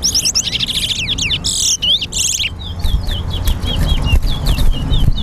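Towa-towa birds (chestnut-bellied seed finches) singing in a song contest: fast, sweeping whistled phrases in the first half, then a run of short repeated down-slurred notes. Steady low background rumble underneath.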